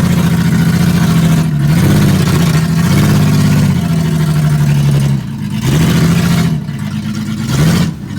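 1984 GMC S15 pickup's engine running while the truck is driven, its pitch rising and falling several times as it is revved up and eased off, with sharp drops about five seconds in and near the end. It sounds horrible, coming from a truck that has sat unused for a long time.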